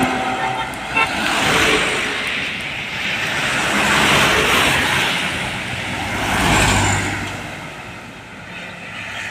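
Road traffic: vehicles passing close by one after another, each one swelling and fading. There is a brief sharp click about a second in.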